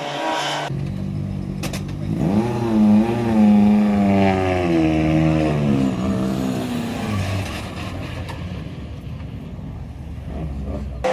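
Rally car engine revving, its pitch rising and falling over and over for several seconds, then running at a steadier, lower pitch.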